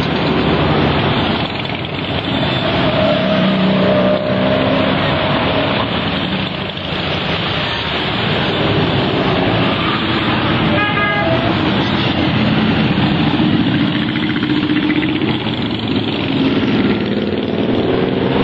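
Motorcycle engines running and revving as a group of bikes rides by, a continuous mix of engines with pitches shifting as they pass. A brief higher-pitched sound cuts through about eleven seconds in.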